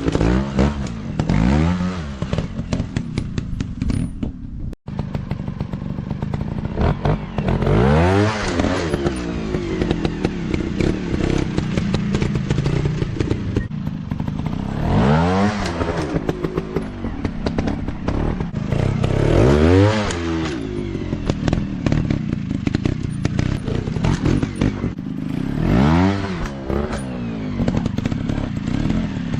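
Small 150 cc dirt bike engines revving up and back down again and again over rough ground, with clatter and thumps. The sound cuts out for an instant about five seconds in.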